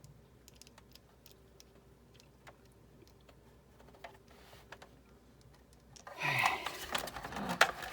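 Faint, scattered small clicks and ticks of a screwdriver driving screws back into a die-cutting machine's housing, then louder sound from about six seconds in.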